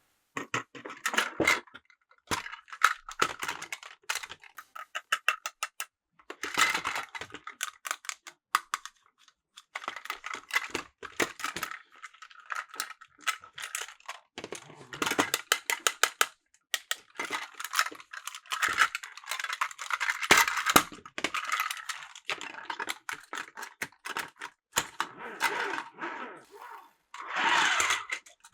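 Plarail plastic toy train set clicking and rattling in quick runs of light plastic ticks, with short pauses between the runs.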